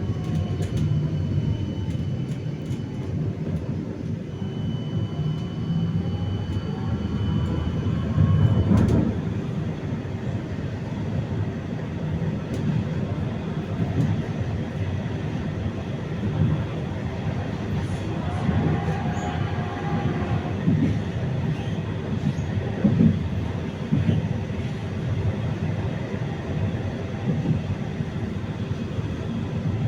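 A 71-931M Vityaz-M tram under way, with steady rolling rumble from its wheels on the rails and the whine of its IGBT-controlled traction drive, which glides in pitch during the first few seconds. A loud knock comes about nine seconds in.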